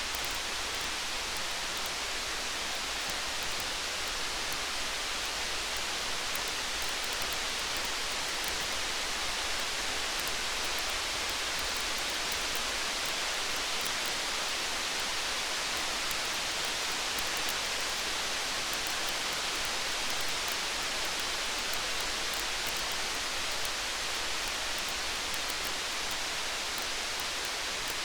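Steady hiss of rain falling, with many faint, sharp crackles of a wood campfire in the high range.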